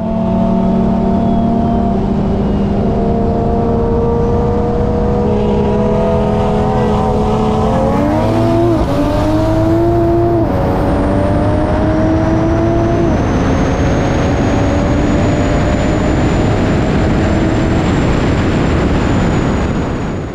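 Single-turbo BMW M4's built S55 straight-six heard from inside the cabin: it cruises steadily, then goes to full throttle about eight seconds in. It revs up hard with two quick upshifts, under a building rush of noise and a thin rising whistle.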